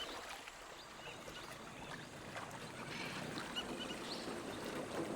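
Small boat on open water: a steady wash of water noise, with several short, faint high chirps scattered through it.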